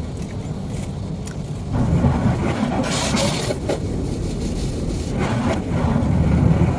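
Car heard from inside the cabin: a steady low rumble of engine and road, with a brief scraping noise about three seconds in and another shorter one about five seconds in.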